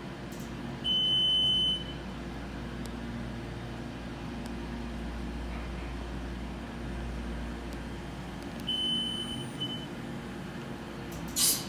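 Elevator signal beeper sounding a steady high electronic beep about a second long about a second in, then a shorter, weaker beep near the end with a brief blip after it. Under it runs the steady low hum of the roped-hydraulic elevator in motion. A short burst of hiss comes just before the end.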